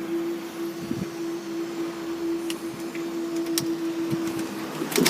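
A steady mechanical hum at one pitch, which stops about four and a half seconds in, followed by a sharp click near the end.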